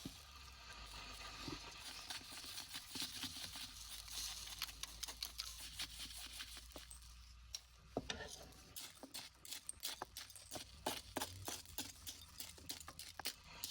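Hands rustling and handling small objects over a steady hiss, then from about eight seconds a quick run of small clicks and taps.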